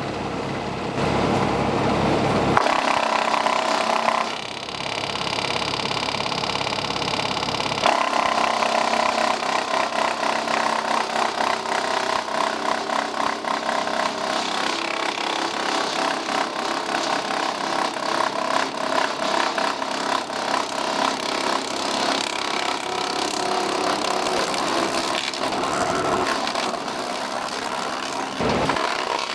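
A PTO-driven three-point-hitch wood chipper on a tractor runs with a steady whine for a few seconds. From about eight seconds in it is chipping wood, a dense continuous crackle of splintering.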